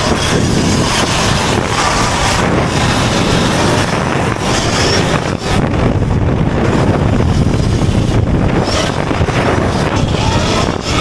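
Wind rushing over the microphone of a rider on a moving Sur-Ron electric dirt bike, with steady road and tyre noise underneath.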